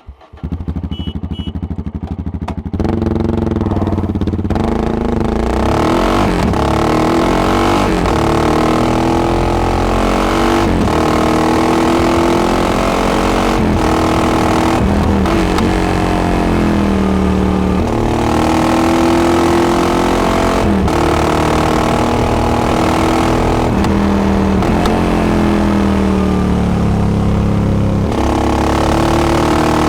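Yamaha XT660X single-cylinder engine through a Devil carbon exhaust, riding hard through the gears: the pitch rises, then drops back at each shift, every one to two seconds. It is quieter for the first few seconds, then loud.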